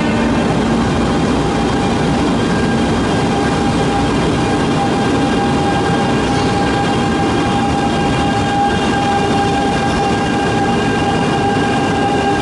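E2-series Shinkansen train pulling out and picking up speed, a steady loud rumble with several high whining tones held over it from the electric traction motors.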